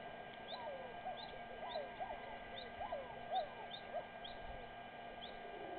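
Birds calling in the wild: many short, curving whistled notes overlap, and a high short note repeats about twice a second throughout.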